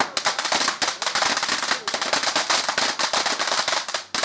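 Fireworks crackling: a long, rapid string of sharp pops and cracks in quick succession, with a brief lull partway through.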